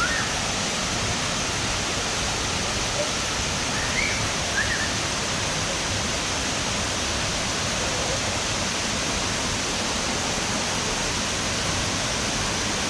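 Steady rush of falling water from the fifth tier of Erawan Falls. A few short high chirps sound near the start and about four seconds in.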